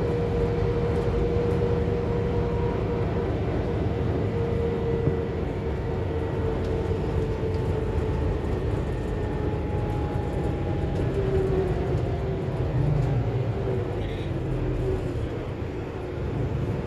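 Onboard sound of a Scania K280UB4 city bus under way: a deep engine and road rumble with a drivetrain whine that holds steady, then slowly falls in pitch as the bus eases off.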